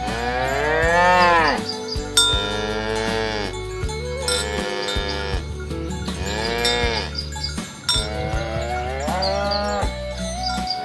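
Cattle mooing: a run of about five long moos, one after another, each rising and then falling in pitch.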